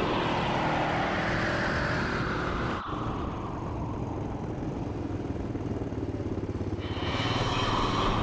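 Quad bike engines running, the pitch falling over the first few seconds, a brief break about three seconds in, then a lower steady rumble that grows again near the end.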